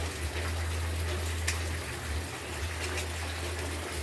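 Steady rain hiss with a low rumble underneath, and one short sharp click about one and a half seconds in.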